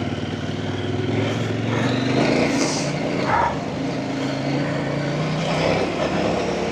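Off-road motorcycle engine running under varying throttle, its pitch stepping up and down a few times.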